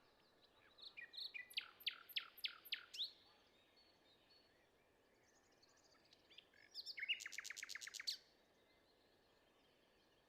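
A songbird singing two songs a few seconds apart, each a few short introductory notes followed by a rapid series of sharp, downward-sweeping notes, over faint background hiss.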